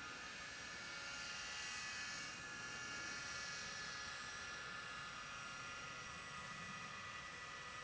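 Small robotic airboats' electric fan propellers whining steadily, several high tones at once, with a hiss that swells between about one and four seconds in.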